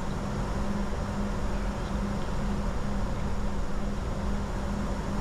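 Steady cockpit noise of a Bombardier Challenger 605 in flight on approach: airflow and engine noise with a steady low hum.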